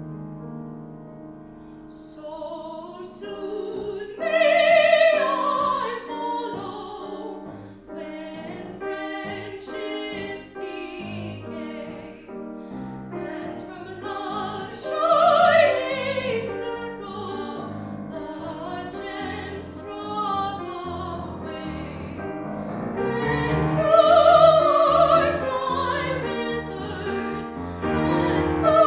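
Classical singer performing in operatic style with vibrato, accompanied by piano. The voice swells to loud held notes about five, fifteen and twenty-five seconds in.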